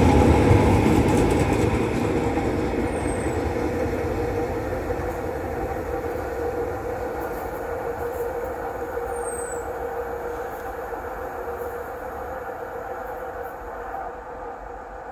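Tyne and Wear Metrocar electric train pulling away and running off into the distance, its wheel-and-motor running noise with a steady hum fading evenly as it recedes.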